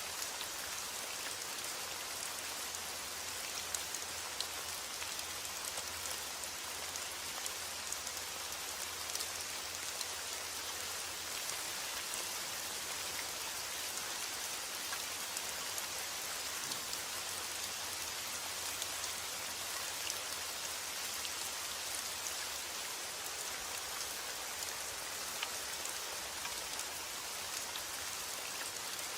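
Steady rainfall with dense, fine pattering of raindrops hitting a surface, and a scattering of sharper individual drop ticks.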